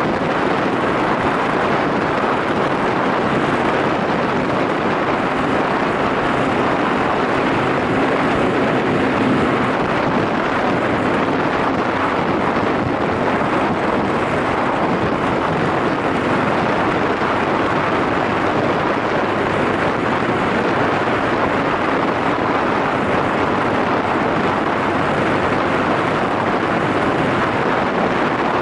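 Yamaha SRX400's single-cylinder engine running at a steady cruise under heavy wind rush on the microphone.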